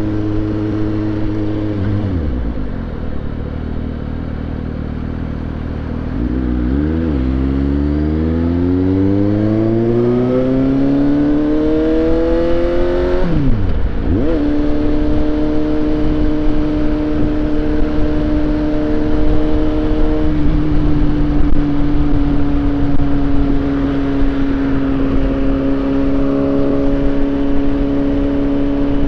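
Suzuki GSX-S750 inline-four motorcycle engine under way. The engine note drops early on, then climbs in one long rise of revs for about six seconds, dips sharply at a gear change, and settles to a steady cruise.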